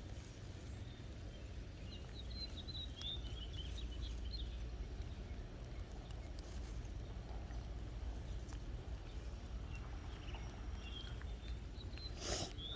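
Quiet outdoor background noise: a steady low rumble with scattered faint high chirps, and one short sharp noise near the end.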